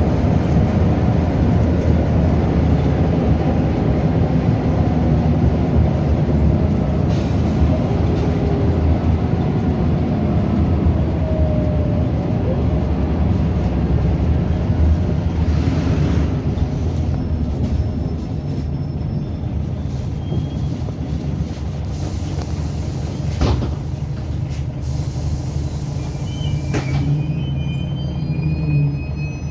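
Scania DC9 9.0-litre diesel engine of a Scania L94UB bus running steadily under way, easing off a little in the second half. A couple of sharp knocks come late on, and faint high whistling tones appear near the end.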